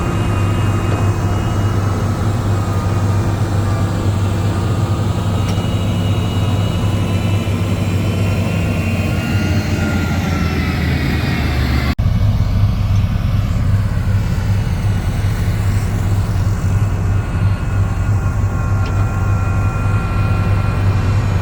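Diesel engine of heavy earthmoving machinery running steadily, a deep hum with a thin whine above it. The sound changes abruptly at a cut about twelve seconds in, then runs on as before.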